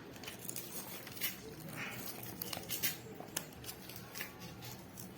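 Faint scattered rustling with irregular sharp clicks.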